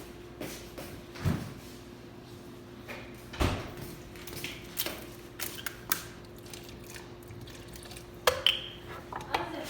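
Scattered knocks and clinks of kitchen utensils and dishes being handled, a few louder ones standing out, over a steady faint hum.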